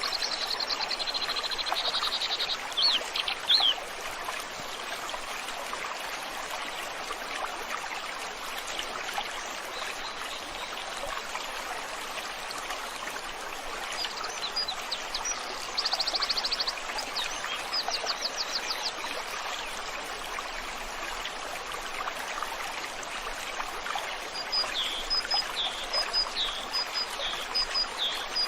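Flowing stream water making a steady rushing, with small birds singing over it: a rapid trill and quick chirps early on, a burst of fast trills in the middle, and repeated short high notes near the end.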